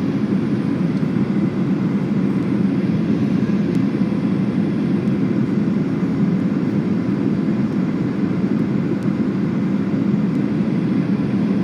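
Steady in-cabin noise of a Boeing 737-800 on final approach, mostly low-pitched: its CFM56 jet engines and the airflow over the airframe, with flaps and landing gear extended.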